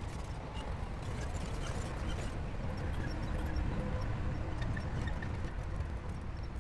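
Shantui crawler bulldozer's diesel engine running steadily with a deep rumble, with light clanking from its tracks.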